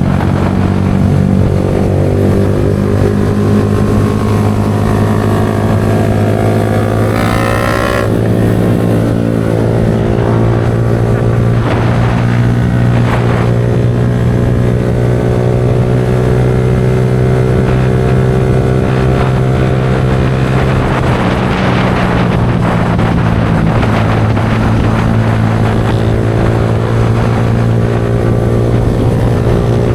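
Yamaha R15 V4M's 155 cc single-cylinder engine running through a Leo Vince aftermarket exhaust. It holds a steady note, with the pitch sliding about eight seconds in and shifting again a little past twenty seconds.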